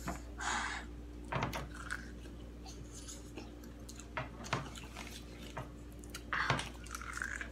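Eating sounds close up: crunchy bites and chewing of corn on the cob coated in crushed Takis, in scattered short bursts, with a few light clicks and scrapes of a utensil.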